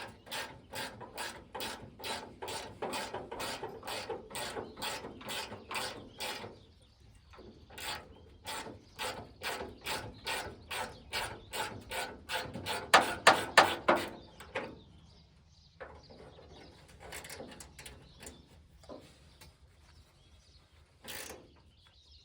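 Socket ratchet clicking in a steady rhythm, about three clicks a second, as it works on a rusty, oiled nut on a truck tailgate handle. The clicking pauses about seven seconds in, starts again and is loudest around thirteen seconds, then dwindles to a few scattered clicks.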